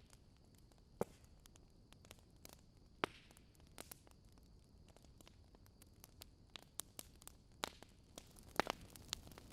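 Fire crackling: irregular sharp pops and snaps over a faint steady hiss, with a few louder snaps about a second in, about three seconds in, and a cluster near the end.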